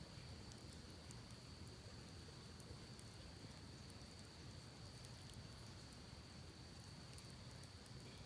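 Campfire crackling faintly: scattered small pops and ticks over a low steady rush, with a thin steady high tone.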